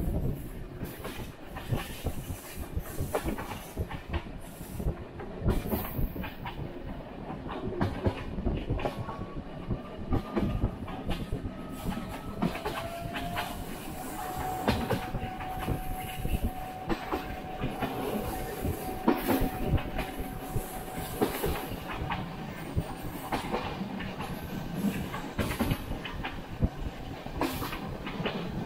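Passenger train carriage running over the rails, heard from an open window: steady rumble with irregular clickety-clack knocks from the wheels. A faint steady whine sounds for several seconds in the middle.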